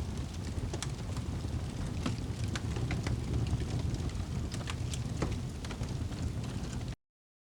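Fire crackling: a steady low rumble with scattered sharp pops and snaps, cutting off abruptly about seven seconds in.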